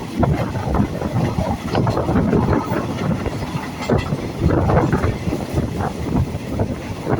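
Passenger train running on the track: a steady rumble from the wheels and carriages, with irregular knocks and clatter.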